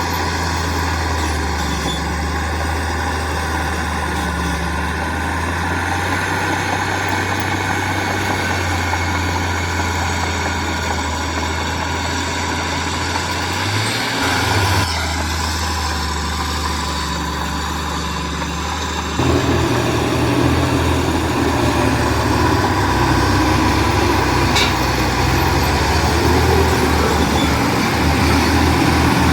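Heavy diesel engine of construction machinery running steadily. About two-thirds of the way in it gets suddenly louder and rougher, and stays that way.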